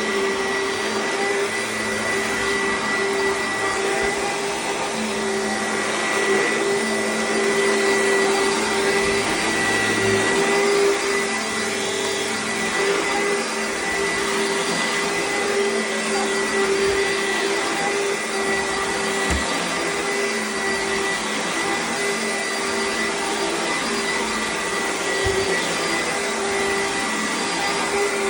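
Oreck XL upright vacuum cleaner running steadily on carpet, a continuous motor hum with a high whine over the rush of air. The sound swells slightly a few seconds in as the vacuum is pushed back and forth.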